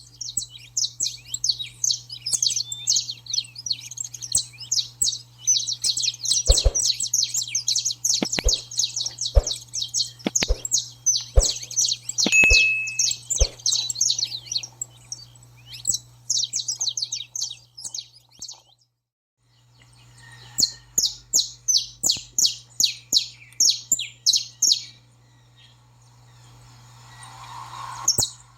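Saffron finches singing their excited song: fast, dense runs of high, sharp notes. A steady low hum sits beneath, and a string of sharp clicks sounds around the middle. The song breaks off for about a second roughly two-thirds of the way through, then resumes.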